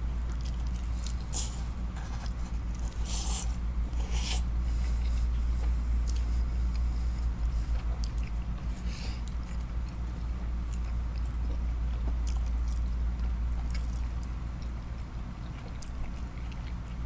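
A man chewing and smacking his lips on tender boiled chicken in sauce, with sharp wet mouth clicks every second or few, over a steady low hum.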